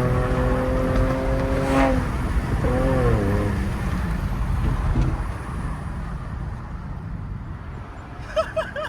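A car engine drones at a steady pitch, then eases off about two seconds in. A brief rise and fall in pitch follows, then a steady rush of road and tyre noise, with a few short high chirps near the end.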